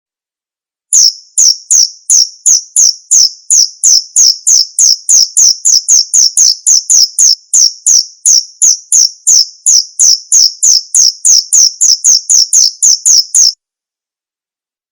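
Male cricket chirping loudly in an even rhythm, about three high-pitched chirps a second. The chirping starts about a second in and stops abruptly near the end.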